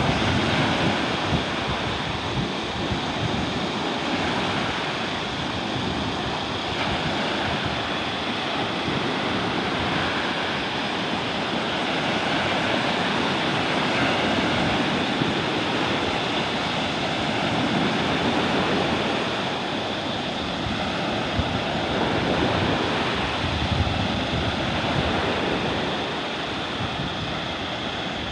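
Sea waves washing onto a beach at high tide, a continuous rushing surf that swells and eases every few seconds, with strong wind buffeting the microphone in a low rumble.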